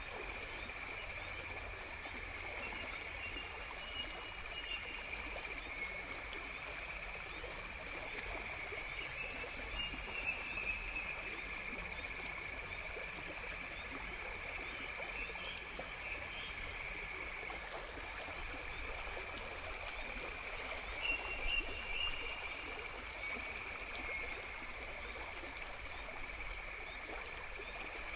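Outdoor nature ambience: a stream running steadily, with faint chirps and two short, rapid high trills, the first about eight seconds in and the second about twenty-one seconds in.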